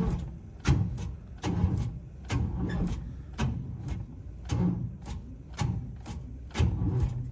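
Blown Chevy 4.3 V6 being cranked by the starter, turning over slowly and hard with a heavy thud about once a second where it catches and nearly locks up. The owner takes this for a failed main or rod bearing.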